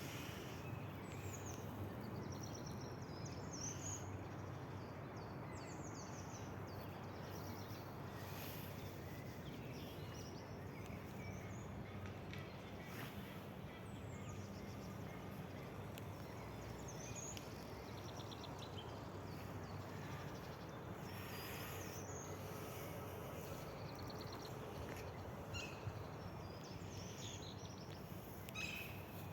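Outdoor nature ambience: small birds chirping and trilling on and off over a steady background hiss.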